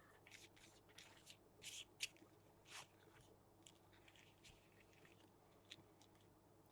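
Faint rustling and crinkling of paper and dried craft material being handled, with a few quick scrapes and ticks. The sounds are busiest in the first few seconds.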